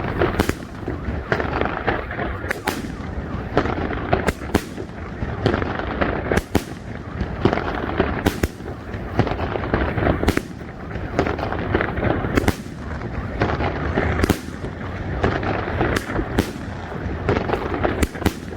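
A 36-shot, 2-inch-calibre fireworks battery (cake) firing: a steady run of sharp bangs, about one to two a second, over a continuous din from the bursting shells.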